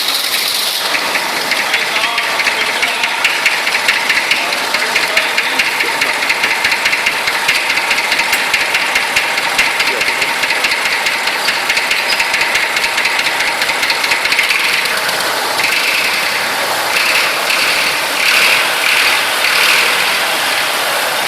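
Massey Ferguson 35 tractor engine running steadily just after starting, with a fast, even clatter from its firing strokes. It swells a little in level a few seconds before the end.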